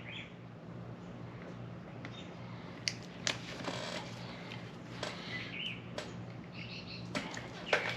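Faint bird chirps over a steady low hum, with a few sharp light clicks and taps, two about three seconds in and two more near the end.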